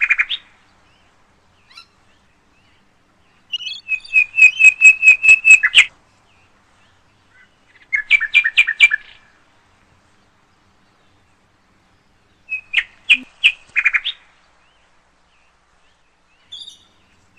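A parrot calling in three bouts of rapid, evenly repeated chirps at one steady high pitch, about six notes a second, with short silences between the bouts.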